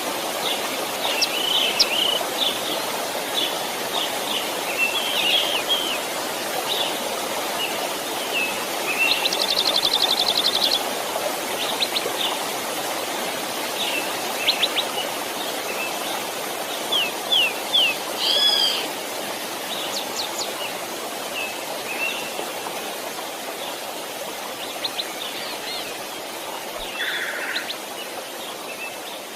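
Steady rush of flowing creek water with songbirds chirping and calling over it throughout, including a fast trill about nine seconds in.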